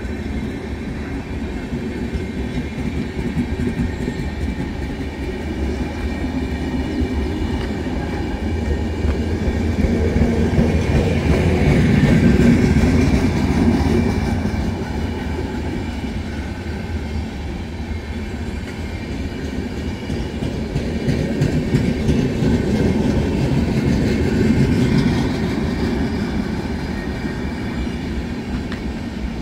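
Passenger train coaches rolling slowly past on the track: a steady wheel-on-rail rumble with clickety-clack, growing louder for a few seconds twice, about midway and near the end.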